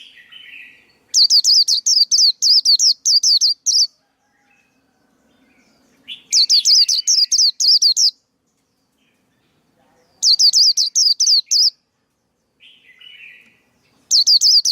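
Male white-eye singing: four bursts of quick, high repeated notes, each burst lasting one to three seconds, with softer twittering in between. It is a lure and training song, used to excite other white-eyes and draw them to a trap.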